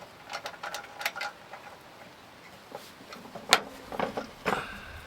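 Metal parts of a petrol-fuelled iron stove lantern being handled and adjusted: a series of sharp clicks and clinks, a few with a brief metallic ring, the loudest knock about three and a half seconds in.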